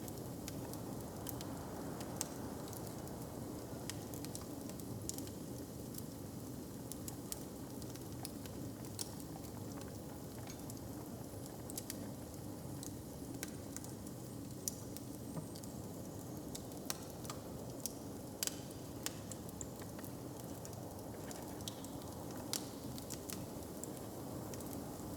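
Wood fire crackling in a hearth, with irregular sharp pops and snaps scattered throughout, over a steady low background hum.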